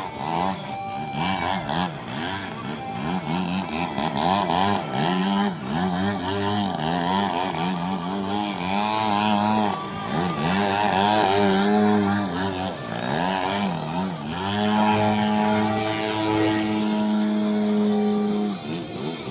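RC model airplane's piston engine in flight, its pitch rising and falling again and again as the throttle is worked through manoeuvres. It holds one steady note for a few seconds near the end, then drops away.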